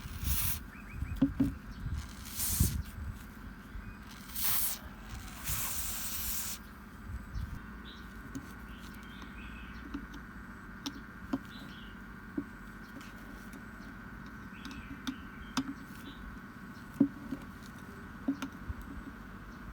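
A few short hissing bursts of spray, then scattered light clicks and taps of small parts being handled.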